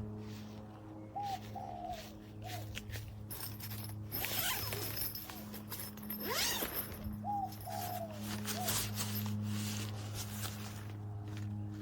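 A dove cooing a short three-note phrase, twice, about six seconds apart, over a steady low hum. A stretch of hissing noise with a brief rising sweep comes in the middle.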